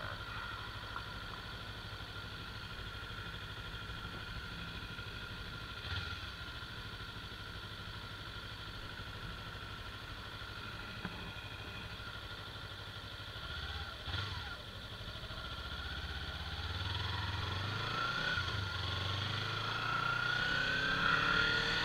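Kawasaki Ninja 300's parallel-twin engine idling steadily while stopped. About two-thirds of the way through it pulls away, and the engine note climbs in pitch and loudness as the bike accelerates.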